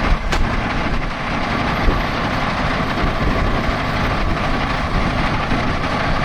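Heavy truck engine running steadily as it drives slowly through deep mud, with a brief click just after the start.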